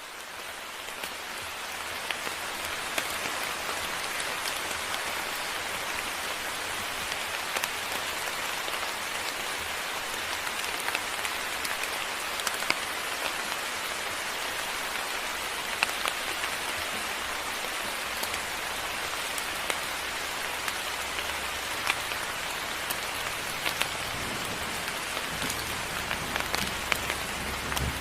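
Steady moderate rain falling, with individual drops ticking sharply through the hiss; it fades in over the first couple of seconds, and a low rumble joins near the end.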